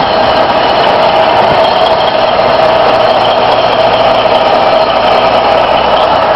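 An old truck's engine running steadily and loud, with a steady whine over the engine noise.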